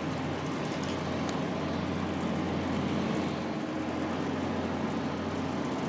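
Jet airliner engines running steadily at a distance: an even rushing noise over a constant low hum.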